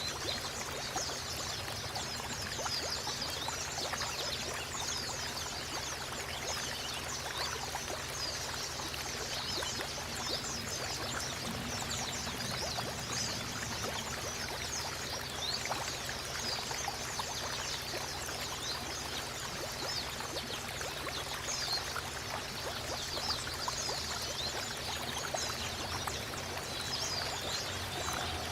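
Water running and pouring steadily, with a dense, continuous patter of short high-pitched flecks over it.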